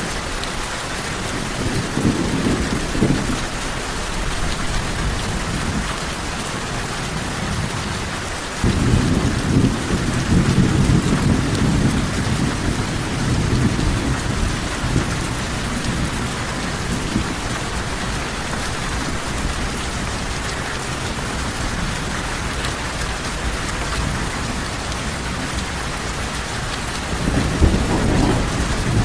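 Steady heavy rain with rolls of low thunder: a short rumble a couple of seconds in, a longer roll that starts suddenly about a third of the way through and dies away over several seconds, and another rumble near the end.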